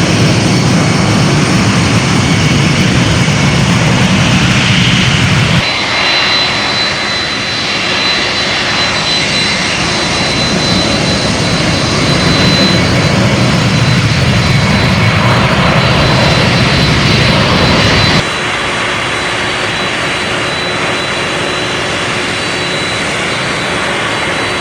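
Boeing 757 jet engines running with a steady roar, broken by abrupt cuts about 6 seconds and 18 seconds in; a thin high whine rides over the roar in the middle stretch.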